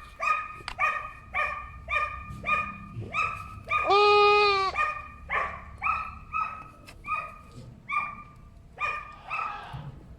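Boer goat kid crying out in short, rapid bleats, about two to three a second, with one longer, drawn-out bleat about four seconds in, while a castration clamp is held closed on it; the cries grow weaker near the end.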